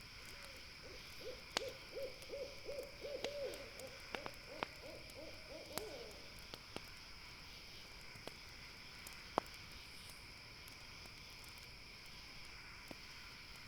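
An owl hooting a quick run of about a dozen short hoots over some six seconds, then falling silent. Campfire crackles and pops sound throughout, with one sharp pop about nine seconds in, over a steady high drone of night insects.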